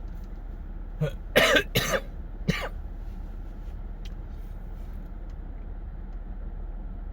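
A person coughing and clearing their throat in a quick run of about four bursts, over a steady low hum.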